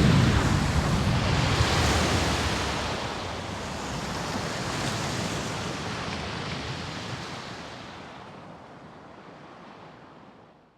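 A dramatic sound effect: a sudden loud rush of rumbling noise, heaviest in the low end, that fades out slowly over about ten seconds.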